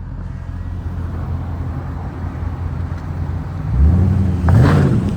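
Straight-piped Dodge Scat Pack's 6.4-litre HEMI V8 running at low revs, then revved hard twice near the end, the pitch climbing and dropping each time.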